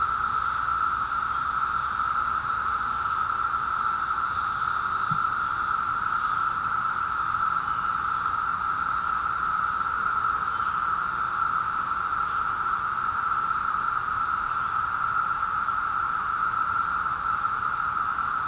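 Chorus of 17-year periodical cicadas: a steady, pervasive droning hum of many males calling at once, with shorter, higher-pitched sounds coming and going above it.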